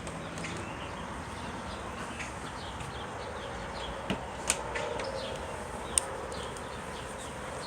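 Outdoor ambience of many small birds chirping in short, falling calls over a steady background hiss, with two sharp clicks a little past the middle.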